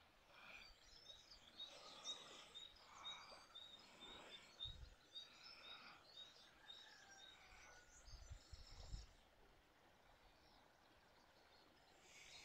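Near silence with a bird repeating a short high chirp about three times a second, stopping about five seconds in, and a few soft low thumps later on.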